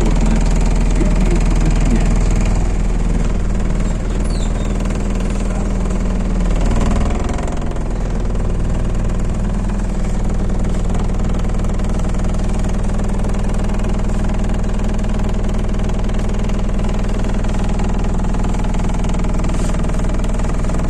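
MAZ-206 city bus's diesel engine running steadily; about seven seconds in the note drops a little and then holds even, like an idle.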